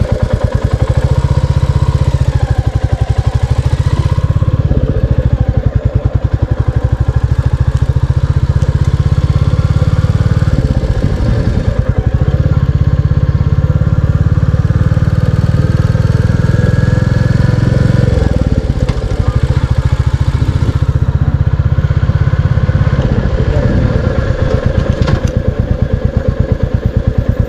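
Royal Enfield Classic 350's single-cylinder engine thumping under load at low speed, easing off and picking up again several times as the throttle is worked.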